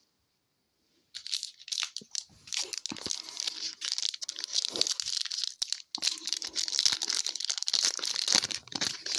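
A hockey card pack's wrapper being torn open and crinkled, a dense crackling with many sharp crackles. It starts about a second in and pauses briefly a little past the middle.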